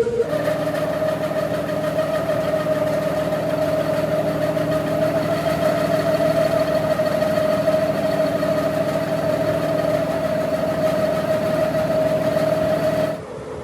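A machine's motor running at a steady speed with a constant hum, then cutting off suddenly near the end.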